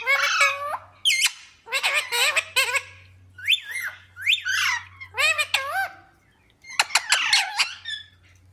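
Pet ringneck parakeet squawking: a run of short, shrill, pitch-bending calls about once a second, with a brief pause about six seconds in.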